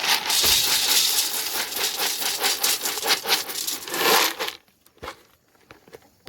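Dry animal feed being poured, a dense rattling patter of many small pieces that runs for about four and a half seconds and then stops, followed by a couple of soft knocks.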